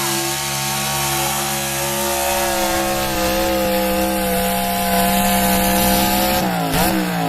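Pulling truck's engine held at wide-open throttle under load, running at high, steady revs. Near the end the revs dip sharply and then begin to fall away as the throttle is let off at the end of the pull.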